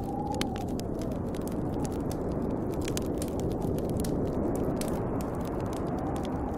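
Wood fire crackling with frequent sharp pops over the deep, steady rush of a snowstorm wind, which whistles in a rising and falling moan near the start and again near the end.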